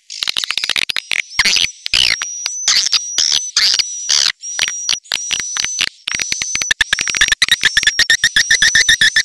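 Swiftlet lure-call recording: swiftlets chattering in short chirps and clicks, with thin high whistled notes in the first part. About two-thirds of the way in it turns to a fast, even run of short calls.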